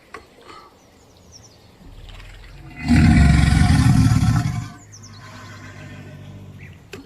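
A large animal's loud call, lasting about two seconds in the middle, between quieter stretches.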